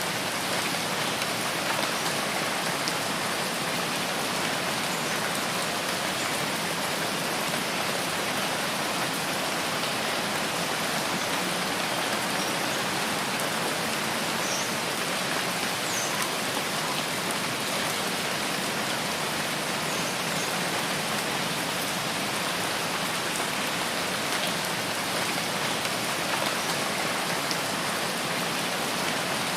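Steady rain falling in a rain forest, an even, unbroken hiss of many drops.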